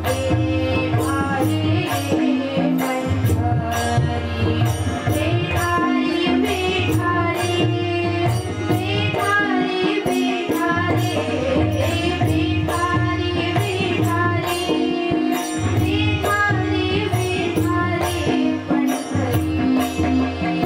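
Marathi devotional bhajan sung by a group of voices, with held notes underneath and percussion keeping a steady beat of about two to three strikes a second.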